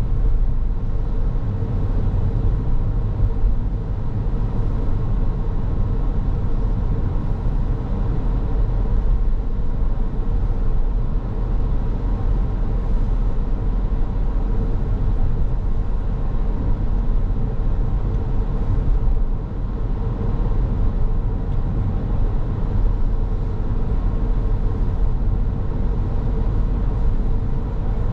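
Car driving along a road: a steady low rumble of engine and tyre noise with a faint steady hum.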